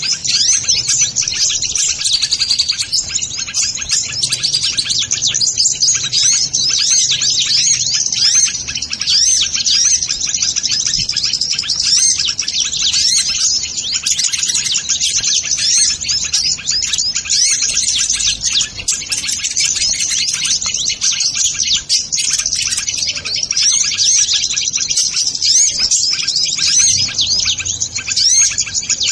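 Sunbirds ('kolibri ninja') chirping and twittering without pause: a dense stream of rapid, high-pitched calls with quick up-and-down sweeps.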